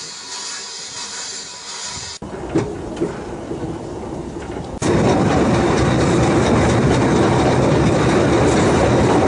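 Two-foot narrow-gauge train running, heard from aboard a carriage: a loud, steady rumble and clatter of wheels on rail that starts abruptly about five seconds in. Before that there is a quieter hiss and a few sharp knocks.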